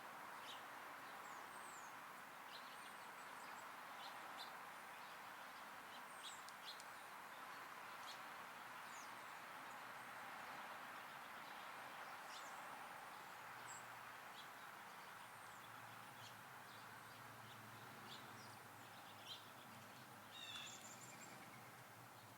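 Faint, scattered short chirps and calls of small songbirds over a steady hiss of outdoor background noise, with a louder run of chirps near the end.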